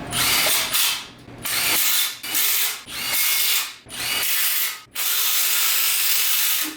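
Handheld power tool run in about seven short bursts, the last one the longest, driving in bolts to fasten an engine plate to an engine block.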